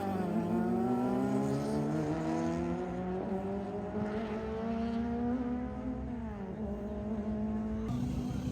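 A car engine accelerating hard, its pitch climbing slowly and steadily for about six seconds. The pitch dips briefly, like a gear change, then holds steady near the end.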